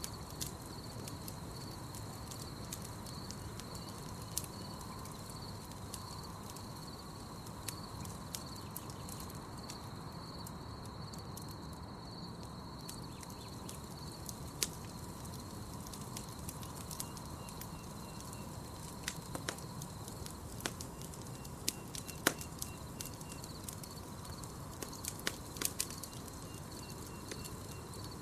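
Campfire crackling, with irregular sharp pops and snaps over a low steady rumble of burning wood. Night insects trill steadily at a high pitch throughout.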